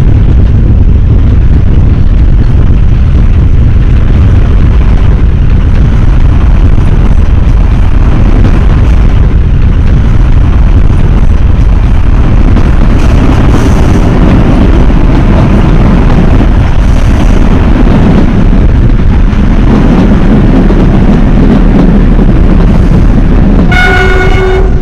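Narrow-gauge train running with a loud, steady rumble. Near the end its ZDM 3 diesel locomotive sounds one horn blast about a second long.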